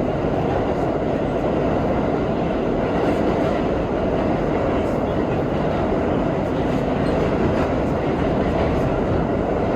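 R32 subway train running at speed through the tunnel, heard from inside the car: a steady, even rumble and rush of wheels on rail.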